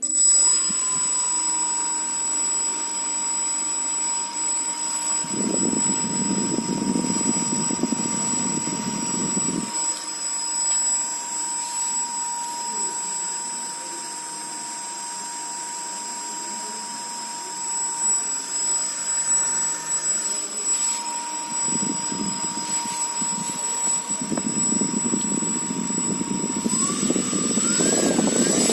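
Brushless table-fan motor running with a steady high electronic whine that switches on abruptly, plus airy rushing noise that comes and goes. Near the end the whine rises in pitch as the fan is sped up.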